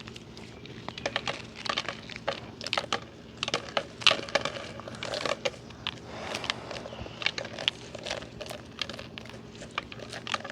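Dried seed corn being shelled by hand, with kernels breaking off the cob in an irregular run of quick clicks and crackles.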